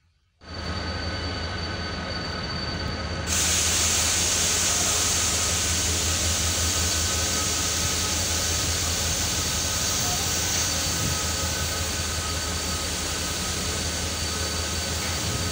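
Steady mechanical hum of a passenger train standing at a platform. About three seconds in, a loud, even hiss starts abruptly and keeps going.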